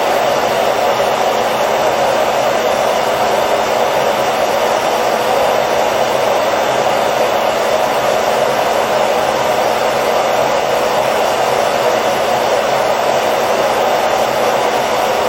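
Hair dryer running steadily, a constant even whoosh of blown air with a faint motor hum and no change in pitch or level.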